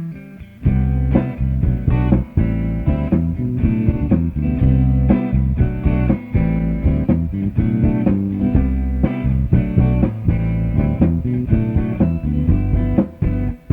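Band music: plucked guitars over bass guitar playing a rhythmic instrumental passage, with the full band entering about half a second in.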